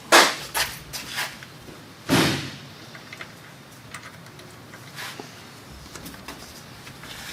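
A few sharp metal knocks and clatters from parts and hand tools being handled during front suspension work, the loudest about two seconds in, followed by small faint ticks.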